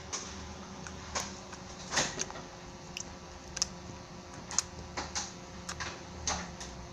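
Slime being squeezed and poked, giving a dozen or so irregular sharp clicks and pops, the loudest about two seconds in.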